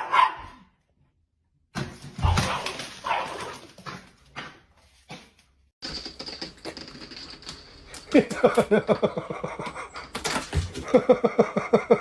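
A dog vocalizing across a few cut-together clips, with two fast, stuttering runs of short pitched yelps in the second half.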